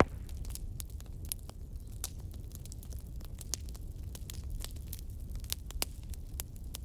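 Wood fire crackling: irregular sharp pops and snaps over a steady low rumble of burning, with one louder pop right at the start.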